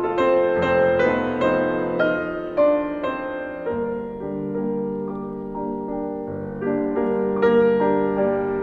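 Background piano music: a slow melody of single struck notes that settles into held chords midway, then picks up again near the end.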